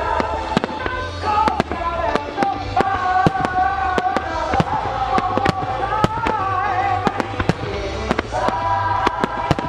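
Aerial firework shells bursting in a rapid, irregular string of sharp bangs and crackles. Music plays along underneath, with held, slowly wavering notes.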